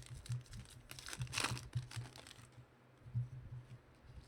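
Trading cards and their packaging being handled on a table: scattered light clicks and taps, with a short rustling, tearing sound about a second and a half in.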